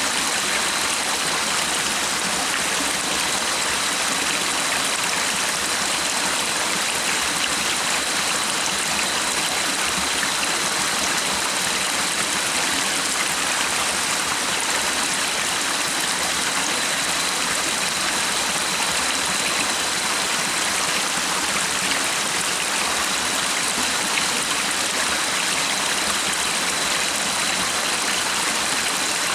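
Steady rushing and splashing of flowing stream water, an even, unbroken hiss, with a faint steady high tone beneath it.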